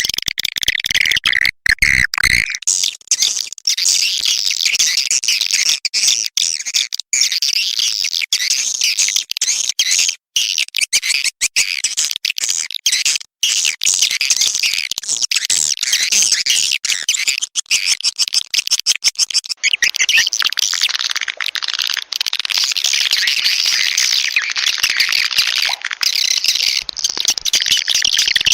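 Swiftlet calling sound: a dense, continuous chatter of high twittering swiftlet chirps with many brief cut-outs. It is a lure recording played from swiftlet houses to draw swiftlets in to nest.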